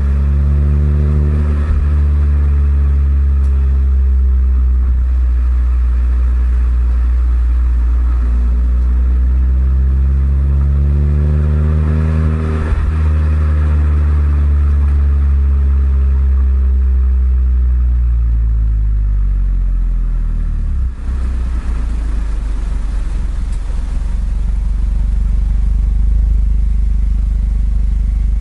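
Suzuki Swift Sport ZC32S's 1.6-litre four-cylinder engine heard through an aged Kakimoto-Kai aftermarket exhaust while driving. The exhaust note eases off, climbs under acceleration to a peak about halfway through, then falls away as the car slows. About three-quarters of the way in, the pitched note gives way to a low steady rumble.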